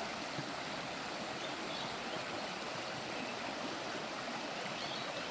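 Steady, even rushing of flowing water, like a creek running over rocks, with no breaks or distinct events.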